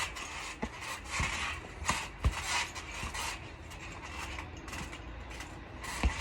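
Trampoline springs creaking and rattling, with a few irregular low thumps.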